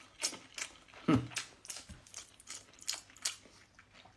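Close-up mouth sounds of a woman chewing and smacking her lips while eating fish: a string of short, wet clicks about three a second, with a louder one about a second in.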